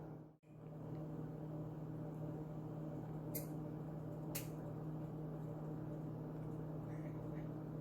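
A steady low machine hum with a strong low tone, and two brief light clicks about a second apart midway.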